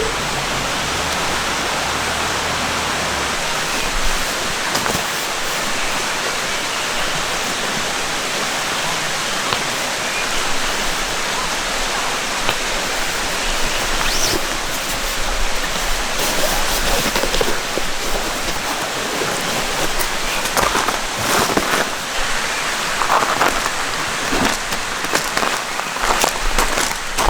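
A gentle mountain stream flowing steadily. From about halfway in, scattered short clicks and knocks sound over the water.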